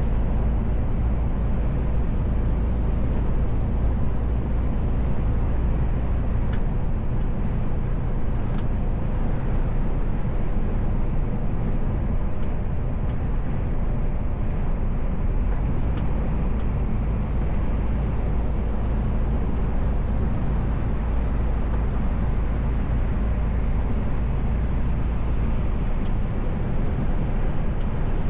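Mercedes Actros L truck driving steadily, heard inside the cab: a constant low engine drone with road and tyre noise, with a few faint clicks.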